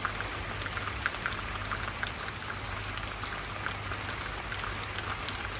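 Steady rain falling, with many small drop taps scattered irregularly throughout.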